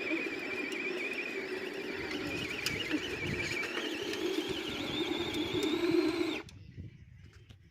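R/C truck's motor whining steadily under load during a truck pull, its pitch rising over the last couple of seconds before it cuts off suddenly a little after six seconds in.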